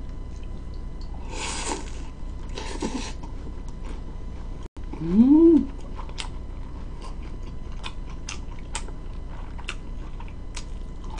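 Close-mic chewing of a crispy pan-fried dumpling topped with chewy spicy noodles. Two loud crunching bursts come in the first three seconds, a short hum about five seconds in, then steady chewing with many small mouth clicks.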